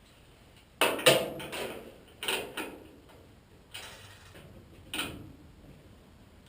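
Metal clanks and scrapes of tools or parts being handled, a string of about six knocks, the loudest about a second in.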